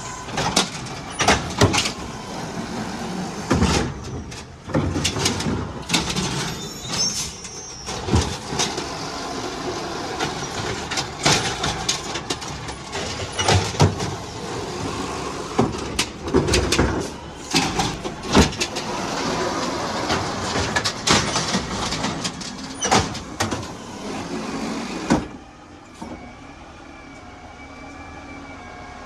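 Garbage truck working, its engine running under many repeated clanks and bangs. About four seconds before the end the noise drops away suddenly, leaving a fainter steady hum.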